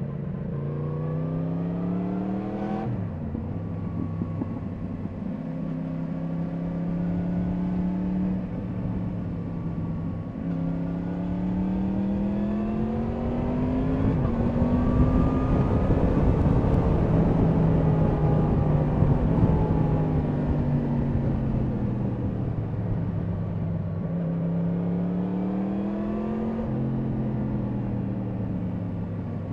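Yamaha MT-10 SP's crossplane inline-four engine pulling up through the revs, with sudden drops in pitch at the upshifts about 3 s in, around 10 s and near the end. Wind rush over the bike is heaviest in the middle of the run.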